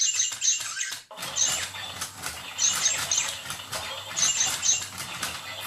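Pet parrots chattering: a rapid, dense run of shrill chirps, squeaks and squawks with a brief pause about a second in. It is the kind of noisy, mechanical-sounding chatter that the owner puts down to their having lived somewhere noisy, like a manufacturing plant.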